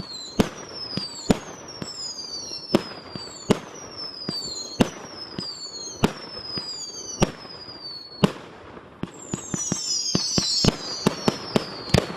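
Fireworks display: a steady run of sharp bangs about every three-quarters of a second, each followed by a whistle falling in pitch. In the last few seconds the bangs come faster and closer together, with several falling whistles overlapping.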